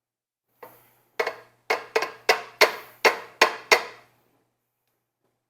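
A utensil knocked sharply against a mixing bowl about ten times in roughly three seconds, each knock ringing briefly.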